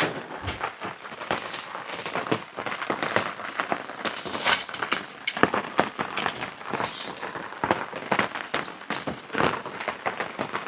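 Crinkling and rustling of a cloth flag and its plastic wrapping being handled and unfolded, a dense run of irregular crackles.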